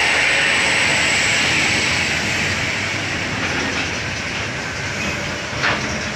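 Heavy truck passing close, a dense rush of engine and tyre noise that eases off over the first couple of seconds as it moves away, with a short knock near the end.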